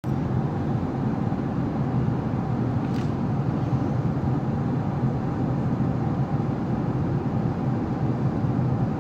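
Airbus A380 in flight, heard from inside the cabin: a steady low drone of engines and airflow. A faint click comes about three seconds in.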